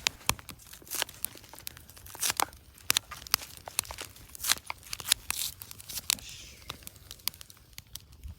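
Hands preparing food ingredients: irregular crinkling and tearing with scattered sharp clicks and knocks.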